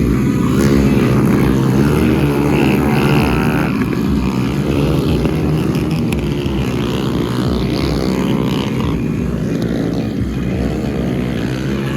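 Small single-cylinder four-stroke motorcycle engines of the Honda Pop 100/110 class racing, their pitch rising and falling over and over as the throttle opens and closes.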